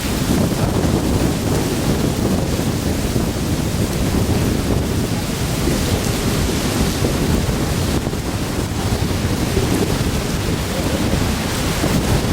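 Steady, loud low rumbling noise with no distinct events, like wind or water buffeting the microphone.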